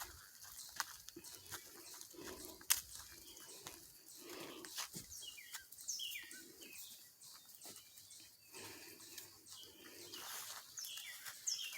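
Faint bird calls: short falling chirps in small groups, about six seconds in and again near the end, with scattered clicks and an on-and-off low hum.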